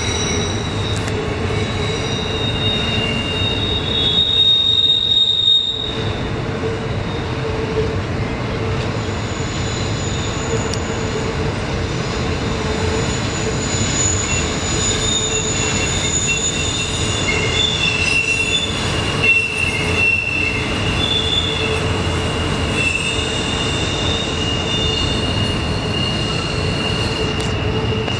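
Double-stack intermodal freight cars rolling past over a steady rumble of wheels on rail, with steel wheel flanges squealing against the rail on the tight curve in high, wavering tones that come and go. The loudest squeal is about four to five and a half seconds in.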